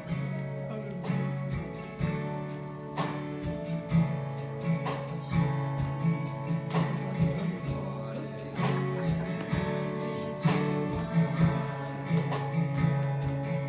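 Acoustic guitar strumming chords, an instrumental introduction to a gospel song.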